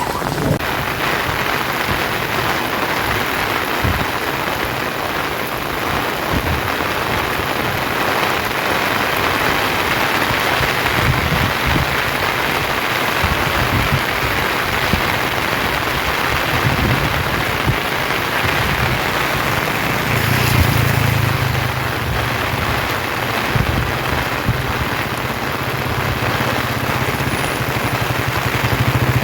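Heavy rain falling steadily. About two-thirds of the way through, a low engine hum joins it and keeps on.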